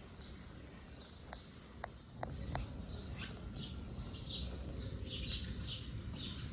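Birds chirping in the background, many short high calls, with a few sharp light clicks in the first half.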